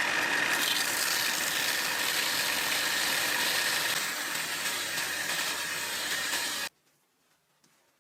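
A machine running steadily with a hissing, whining noise, then cutting off suddenly about two thirds of the way through.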